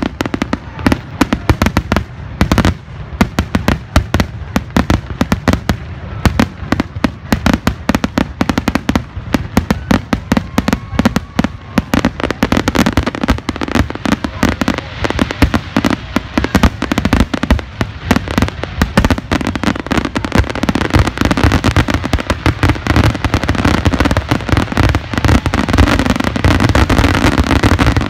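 Aerial fireworks in a dense barrage: shell bursts and reports in quick, overlapping succession, many a second, building thicker and louder over the last several seconds.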